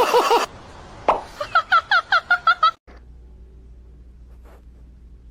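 A cat chirping: a quick run of about eight short, squeaky chirps, then a sudden cut to a faint low hum.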